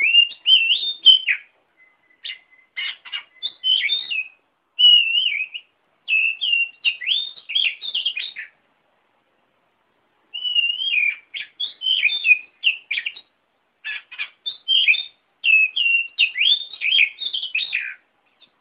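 Oriental magpie-robin singing: varied phrases of clear whistled glides and quick chirps. It breaks off for about two seconds midway, then sings a long run of phrases.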